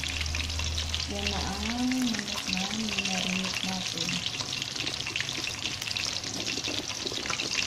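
Breaded chicken pieces frying in hot oil in a pan: a steady, dense crackling sizzle.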